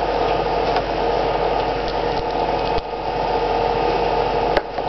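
A steady mechanical whir with a low hum, unchanging throughout, with a couple of faint clicks near the middle and end.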